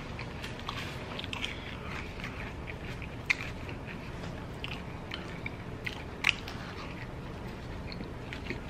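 Close-up mouth sounds of a person chewing food: wet smacks and small clicks throughout, with two sharper clicks about three and six seconds in.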